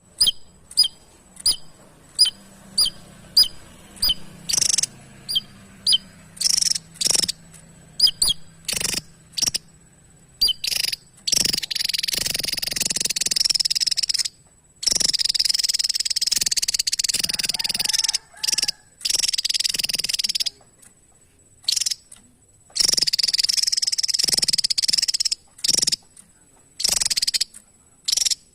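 Javan tesia singing: a run of short, sharp high notes about two a second, then long, fast trills lasting several seconds each, broken by brief pauses.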